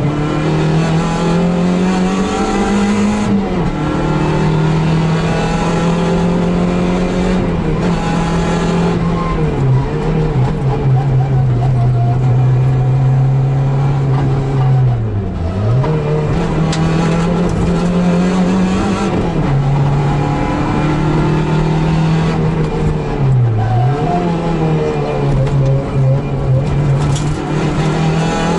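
Suzuki Swift GTi MkII's 1.3-litre twin-cam four-cylinder engine pulling hard at high revs, heard from inside the cabin. The pitch drops sharply and climbs back twice, about halfway through and again about three-quarters in, as the driver lifts off and gets back on the throttle.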